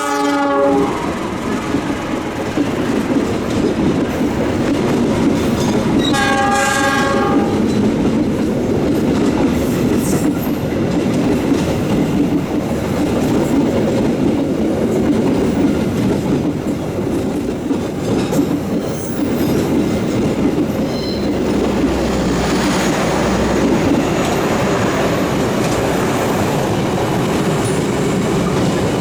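Passenger train running past at speed, a continuous rumble with the wheels clacking over the rail joints. A locomotive horn ends just after the start, and another blast sounds about six seconds in, lasting about a second and a half.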